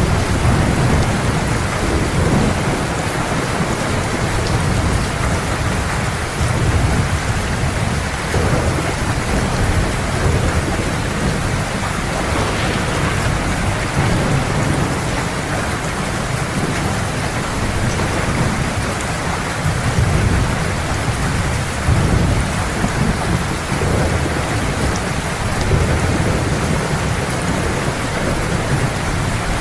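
Heavy rain falling steadily, with low rumbles of thunder swelling up every few seconds.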